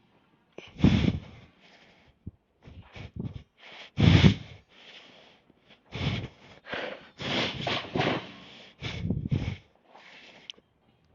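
A man breathing hard from exertion, with irregular forceful exhales and snorts; the two strongest come about a second and about four seconds in.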